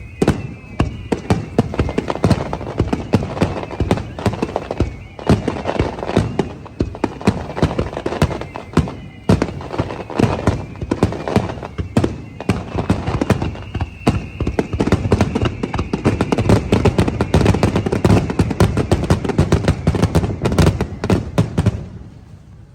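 Fireworks display in a rapid barrage of bursts and crackles, a dense run of bangs that stops suddenly near the end.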